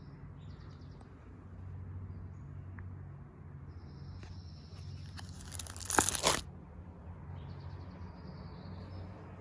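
A short crinkling rustle about six seconds in, like a photo-album page being turned, over a low steady hum.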